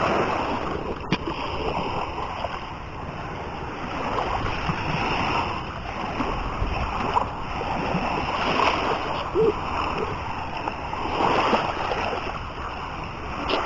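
Seawater splashing and surf washing in: a steady rushing noise that swells and fades every few seconds, with faint voices now and then.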